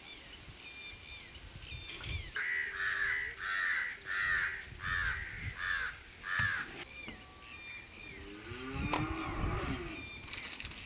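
A bird calling about seven times in a row, each call about half a second long, with faint small-bird chirping behind. Near the end a lower, falling animal call sets in.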